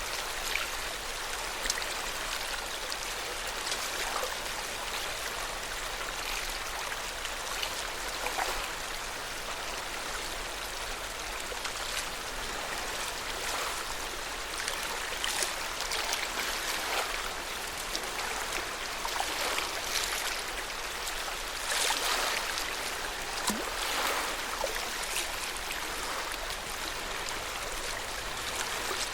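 Lake water lapping at the shore: a steady wash with many small, irregular splashes.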